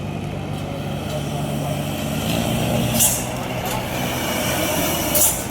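Truck engine running with a steady low drone that eases off about halfway through, and two short sharp hisses of air-brake air about three and five seconds in.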